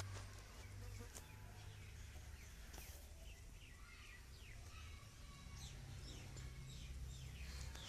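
Faint bird chirps, short falling calls repeated irregularly, over a steady low hum.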